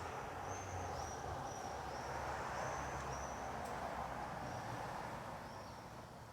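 Outdoor ambience: a steady rushing background that swells and eases, with a low hum beneath it and a run of short, high chirps repeating about twice a second.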